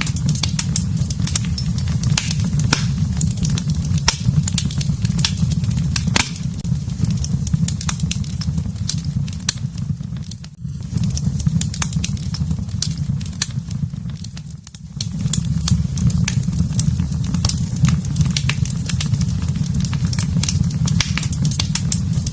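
Wood fire in a fireplace crackling, with frequent sharp pops and snaps over a steady low rumble of flames. The sound dips briefly twice, once about halfway through and again a few seconds later.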